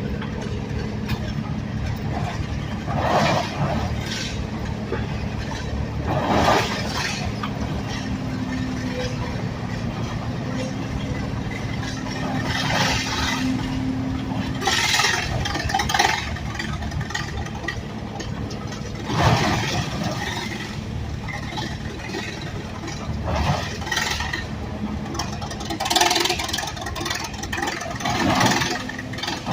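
An engine running steadily, with loud puffs coming every two to six seconds at uneven spacing.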